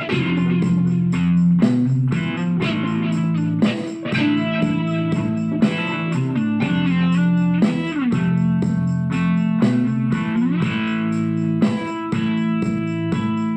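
Electric guitar playing a melodic line of plucked notes over held low notes, with a few notes sliding in pitch.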